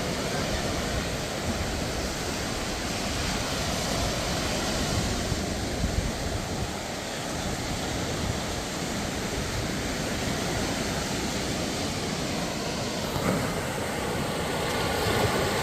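Steady wash of seaside noise: surf breaking and washing on the beach, mixed with a low rumble of traffic.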